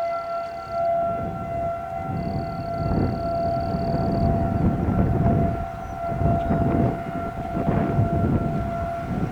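Outdoor tornado warning siren sounding one steady, unwavering tone, warning of an approaching tornado. Gusts of wind buffet the microphone with low rushing noise that rises and falls from about two seconds in.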